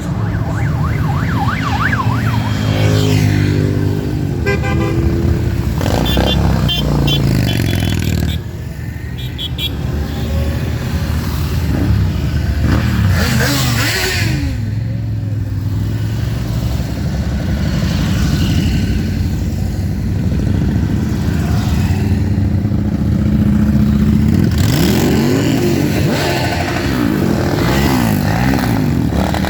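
Motorcycles riding past in a parade, engines running and revving up and down, with short horn toots in the first third.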